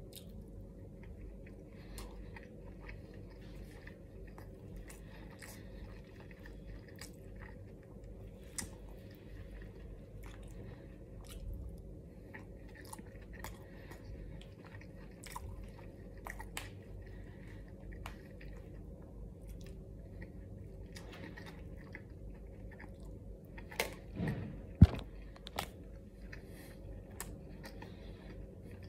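Close-up chewing of fried rice and omelette, with wet mouth sounds, light crunching and many short clicks as the metal spoon scoops and knocks in the plastic tub; a few louder sharp clicks near the end.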